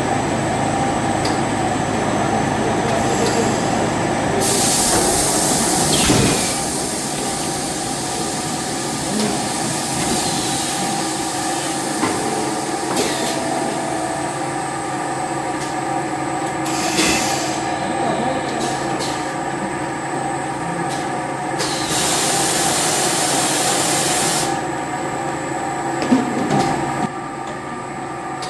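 Factory machinery running steadily, a hum with several constant tones, broken twice by a hiss of air lasting about two seconds and by a few sharp clicks.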